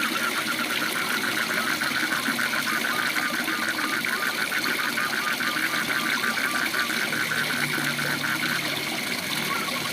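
Waterfall rushing steadily, with a frog calling in a fast, evenly pulsed trill that stops near the end.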